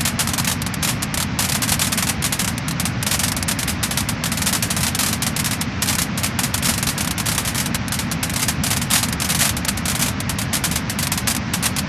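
Wood-burning fire crackling and popping, with many quick crackles close together over a steady low rush.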